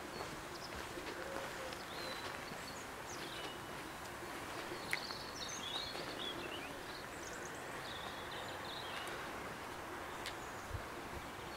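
Songbirds chirping and twittering intermittently over a steady background of outdoor noise, with a single sharp click about five seconds in.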